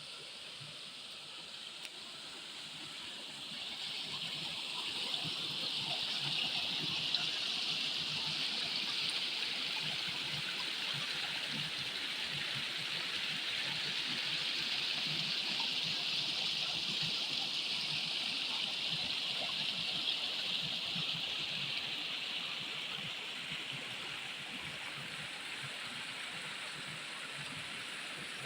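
Steady rushing of water from a small forest waterfall, growing louder a few seconds in and easing off near the end.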